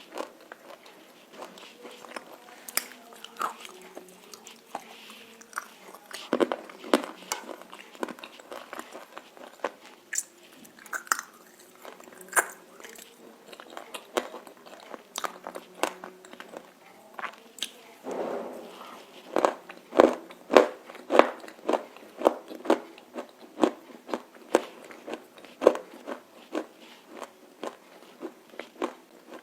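Close-up crunching and chewing of roasted nakumatt clay with red clay paste: repeated sharp, brittle bites and crackles, coming thick and loud in a fast run past the middle.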